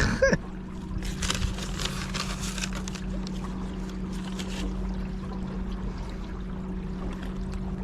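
A small boat under way, with a steady hum from its battery-powered motor. Water splashes along the hull from about one second in to about four and a half seconds in.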